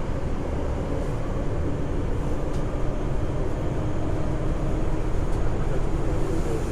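Nagoya Municipal Subway 3000-series train running, heard from inside the car: a steady rumble of wheels and running gear, with a faint steady hum coming in past the middle.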